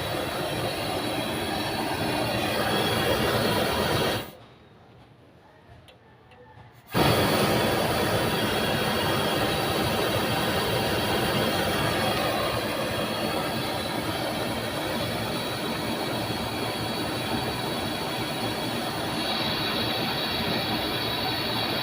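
Stock pot gas burner running with a steady, loud roar of flame. The roar stops suddenly about four seconds in and comes back abruptly some two and a half seconds later.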